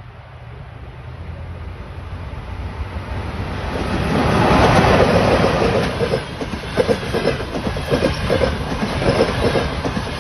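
Passenger train drawing near, growing louder over the first four or five seconds, then passing with the rhythmic clickety-clack of its wheels over the rail joints.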